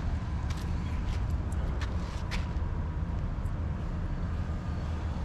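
Steady low rumble of a motor vehicle, with a few light ticks in the first half.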